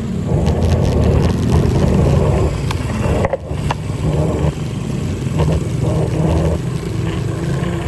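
Steady rumble of wind and road noise on the microphone while riding, with a brief drop about three seconds in.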